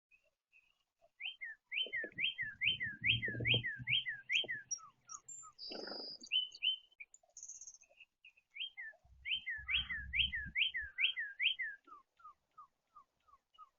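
A songbird singing runs of clear, down-slurred whistled notes, about three a second: one run early on, then another later that drops to lower notes near the end. Low rumbling noise sits underneath the song twice.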